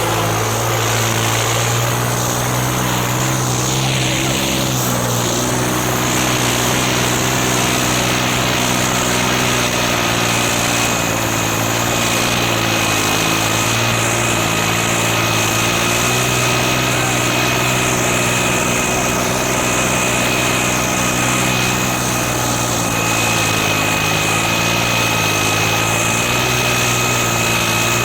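John Deere 5310 tractor's three-cylinder diesel engine running hard under load, its pitch dipping and recovering a few times. A thin steady high whine joins about eleven seconds in.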